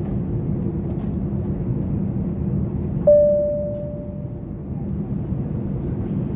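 Steady drone inside an airliner cabin. About three seconds in, a single clear chime from the cabin's call/announcement system rings and fades away over a second or so.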